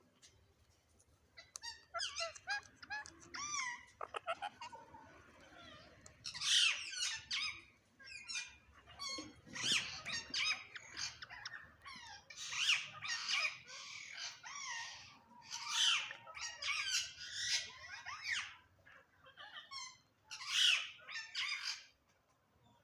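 A parrot chirping and squawking in a long run of high, quickly bending calls with short pauses, starting about a second and a half in.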